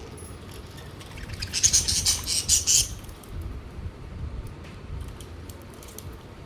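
Pet budgerigars with light scattered clicking and scratching, and a loud, harsh burst of rapid chattering that lasts about a second, starting about one and a half seconds in.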